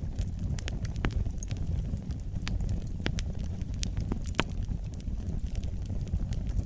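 Wood fire burning in a fireplace: a steady low roar of flames with sharp, irregular crackles and pops, several a second.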